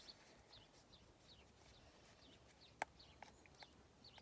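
Faint bird chirping: short, high, downward-sliding notes repeating every fraction of a second. A few light, sharp clicks come in the second half, the first of them the loudest.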